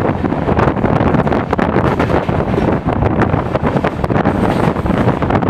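Steady rumble of a moving passenger train heard from on board, with wind buffeting the microphone. The noise is loud and even, with many small rapid knocks through it.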